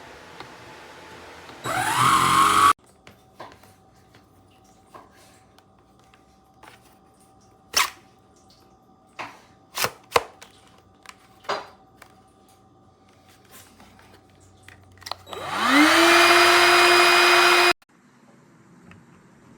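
BLACK+DECKER Dustbuster cordless handheld vacuum switched on in two short runs: a burst of about a second that rises in pitch about two seconds in, then near the end a whine that rises as the motor spins up, runs steadily for about two seconds and cuts off suddenly. Scattered clicks and knocks of handling come in between.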